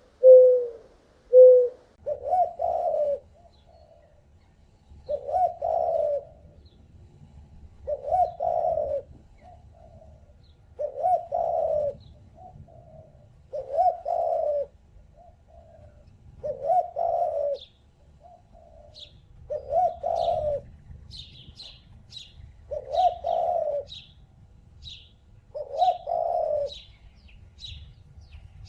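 A bird's call repeated about every three seconds, each call about a second long with a short softer note after it. From about halfway, a second, smaller bird chirps quickly at about two chirps a second.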